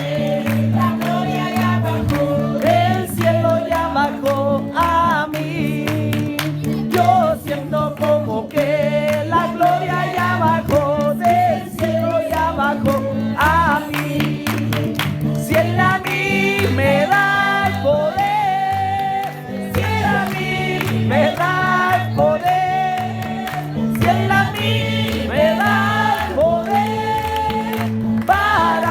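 A group singing a Christian revival chorus with instrumental accompaniment, a bass line stepping between notes under the voices.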